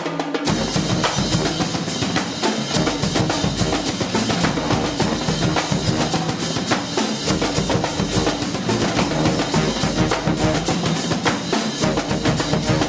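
Drums playing a fast, steady rhythm of bass drum and snare strikes, starting sharply just after the beginning.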